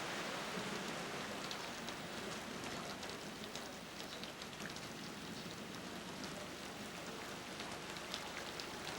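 Steady rain falling, with scattered sharp drips and patters.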